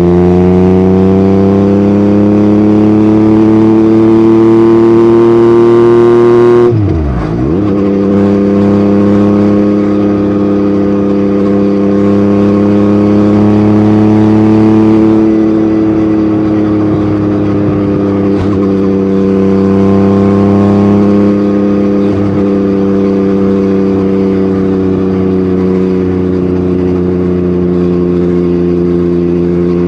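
Yamaha MT-09's three-cylinder engine through an Akrapovic exhaust, the revs climbing steadily for about seven seconds and then dropping sharply at an upshift. After the shift it settles into a steady cruise with small rises and falls in engine speed.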